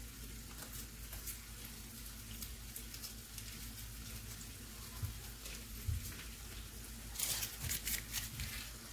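Meat and tomato paste sizzling gently in the pan, with bursts of crinkling from a stock cube's foil wrapper being unwrapped, most of them near the end.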